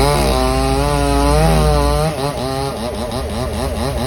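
Chainsaw engine revving up and running at high speed. From about two seconds in, its pitch swings rapidly up and down several times a second.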